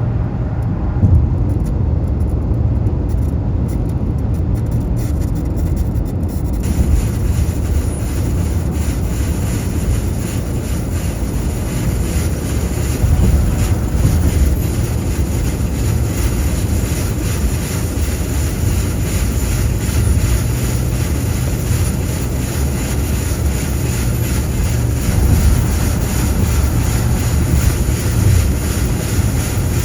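Steady highway traffic noise: a low rumble of engines and tyres on the road, with a hiss that becomes brighter about six seconds in.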